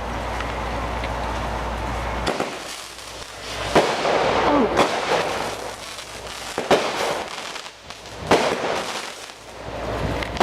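Consumer aerial fireworks going off: after a steady low rumble, a run of sharp bangs about one to two seconds apart, with crackling between them.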